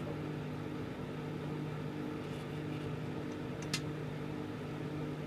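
Microwave oven running with a steady hum while heating a whole egg, with one sharp click about three and a half seconds in.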